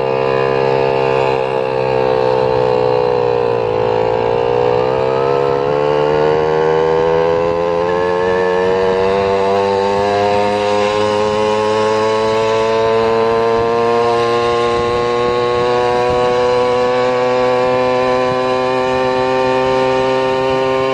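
Engine or drive motor of the vehicle being driven, heard loud and steady: its pitch drops for the first few seconds, then climbs slowly and evenly as the vehicle pulls away and gathers speed.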